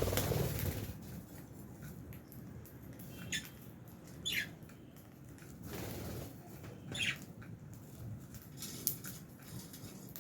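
Lovebirds in an aviary: a few short, high chirps about three, four and seven seconds in, over scratching and rustling, with a louder rustle in the first second.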